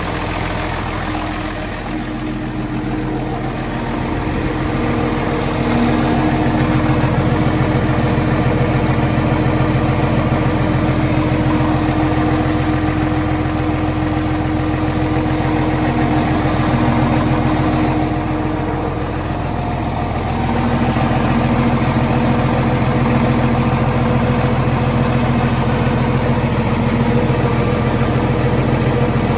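1959 Farmall 560 tractor's six-cylinder engine running steadily at idle. It grows louder about five seconds in and eases off briefly about two-thirds of the way through.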